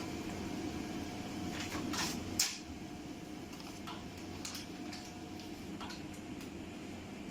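Vertical continuous band sealer running with a steady motor hum. There is a sharp clack about two and a half seconds in, after which the hum is a little quieter, and a few lighter clicks follow as bags are handled on the machine.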